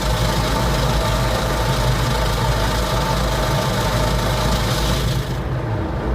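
Automatic car wash air dryers blowing a steady rush of air over the car, heard from inside the cabin over the car's idling engine. The blowing cuts off suddenly about five seconds in, leaving the engine idling.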